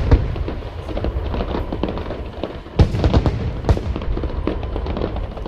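Aerial fireworks bursting in quick succession: a string of sharp bangs and crackles over a steady low rumble, with one loud burst at the start and a dense run of bangs about three seconds in.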